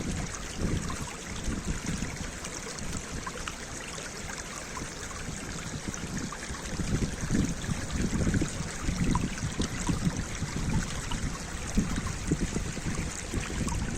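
Running water of a stream: a steady rushing trickle with irregular low surges.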